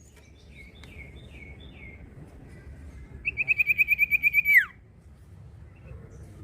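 Common iora singing: a few short downslurred whistled notes, then a loud, rapid trill of about a dozen notes that ends in one sharply falling note.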